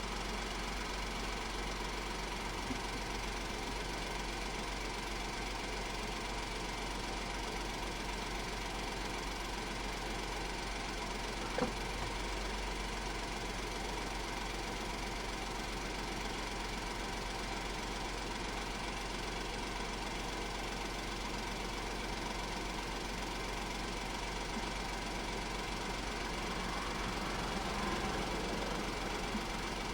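Honda S660's 658 cc turbocharged three-cylinder engine idling steadily at a constant pitch, with a single faint click about twelve seconds in.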